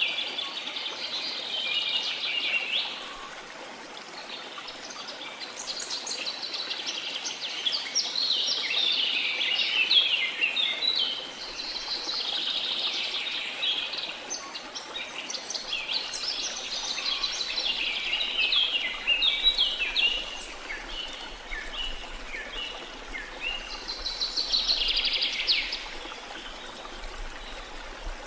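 Several birds singing in overlapping bursts of rapid chirps and trills, over a faint steady rush of water.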